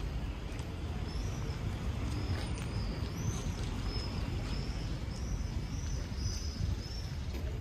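A bird calling repeatedly, about ten short high chirps at roughly two a second, over a steady low rumble of street noise.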